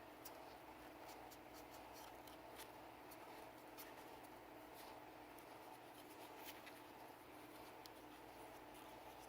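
Faint scratching and small scattered clicks of a Sig Sauer P320 pistol being cleaned by hand, over a steady low background hum.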